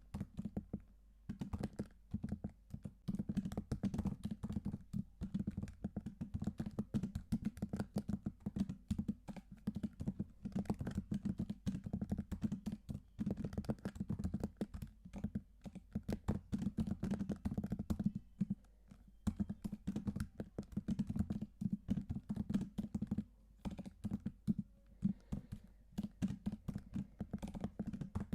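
Typing on a computer keyboard: a fast, continuous stream of key clicks with a deep, low key sound, pausing briefly twice.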